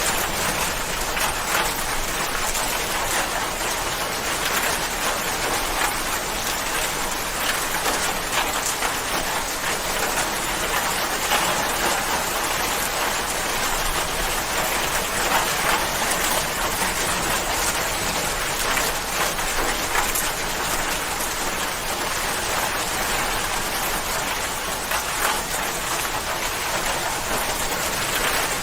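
Steady rain falling, a dense even hiss of drops with many small drop ticks throughout.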